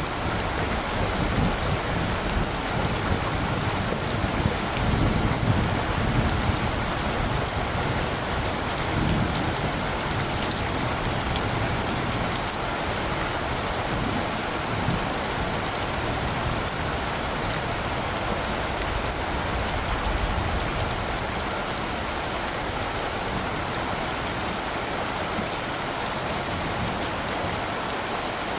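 Steady rain falling, with a low rumble of light thunder about four to seven seconds in.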